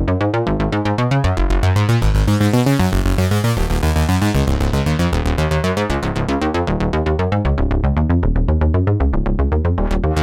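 OB-6 polyphonic analog synthesizer playing a fast sequenced pattern, about seven notes a second over moving bass notes. The tone brightens as the filter opens, peaking a couple of seconds in, then darkens again.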